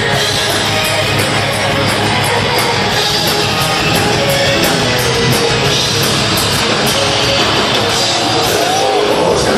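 Heavy metal band playing live, with distorted electric guitars and steady drum and cymbal hits.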